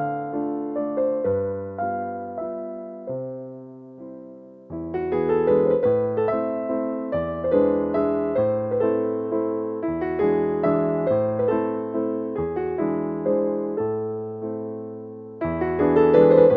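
Background piano music, a gentle waltz in A minor, playing single notes and chords that each fade after they are struck. About four seconds in, a phrase dies away, then the playing picks up again.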